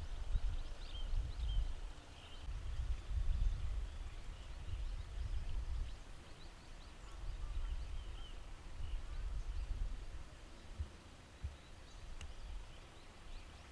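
Wind rumbling unevenly on the microphone, with small birds chirping in the background throughout.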